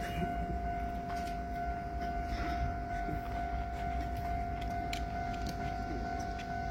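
A train running: a steady high whine over a low rumble, with a few light clicks.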